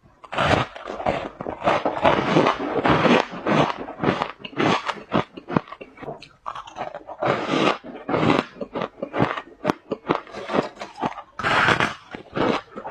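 Ice cubes being bitten and crunched between the teeth close to the microphone, a rapid, irregular run of loud crunches, several a second.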